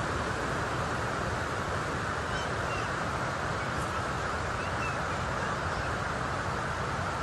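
Steady outdoor rushing noise with a few faint, short, high chirps from birds about two and a half, three and five seconds in.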